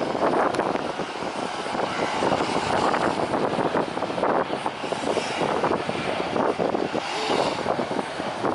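Jet airliner engines running, a steady rushing noise with wind buffeting the microphone.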